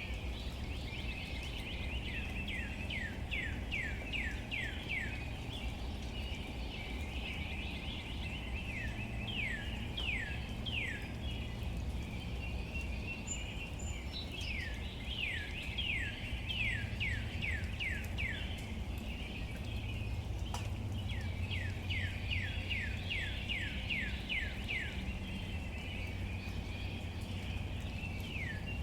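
A songbird singing phrases of quick, falling whistled notes, several a second, repeated four times with short pauses between, over a steady low background noise.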